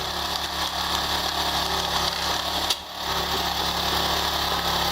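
Log-splitting machine's motor running steadily with a hum, dipping briefly a little before three seconds in.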